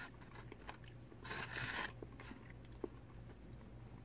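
Chewing a mouthful of crispy fried catfish, with a louder crunch lasting about half a second around a second and a half in.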